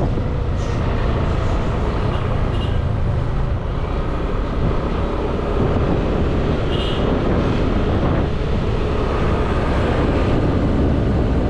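Motorbike running steadily at road speed, its engine and road noise a constant low rumble. A few faint short high chirps come in about two and a half seconds and seven seconds in.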